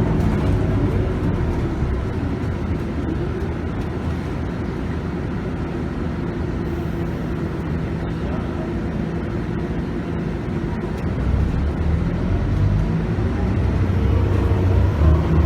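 Scania DC9 five-cylinder diesel and ZF Ecomat automatic gearbox heard from inside the bus while under way, with steady engine drone and road noise. The engine gets louder from about two-thirds of the way in, with its pitch rising near the end as the bus pulls harder.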